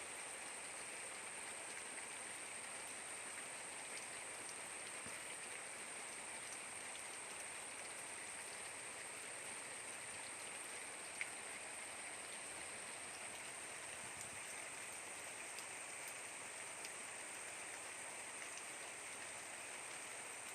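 Steady rain falling, with scattered drops ticking and one sharper tap about eleven seconds in.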